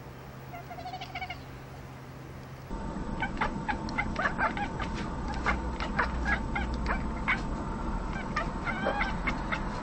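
A cat gives a short, high chirping call about a second in. Then, about three seconds in and louder, a fast string of short chirps and chatters follows, the chattering of cats watching prey through a window.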